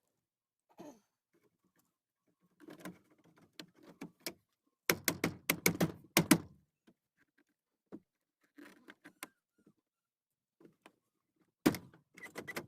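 Knocks and clunks of a replacement armrest being handled and pushed against a pickup truck's door panel while it is test-fitted, with a quick run of sharp knocks about five seconds in and another near the end.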